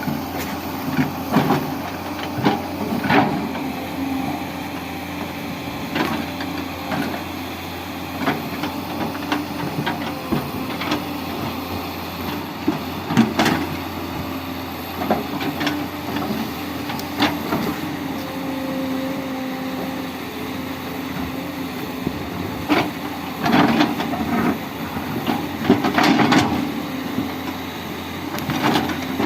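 Tata Hitachi 200 hydraulic excavator's diesel engine running steadily under load, with frequent irregular sharp knocks and clanks as the machine digs and cuts into the hillside.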